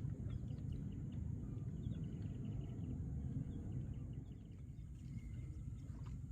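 Outdoor rural ambience: a steady low rumble with a faint high hiss and faint scattered chirps.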